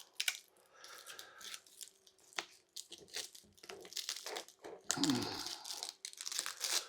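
Velcro (hook-and-loop) straps of a motorcycle seat cover being pulled hard and pressed down, with short ripping rasps and fabric rustle, and a longer rip about five seconds in.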